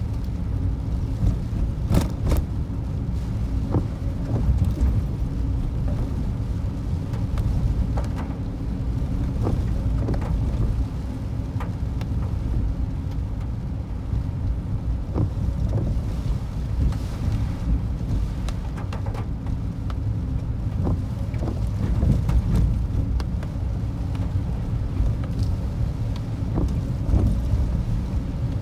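Strong typhoon wind buffeting the microphone over a very rough sea: a steady deep rumble with scattered crackles and knocks.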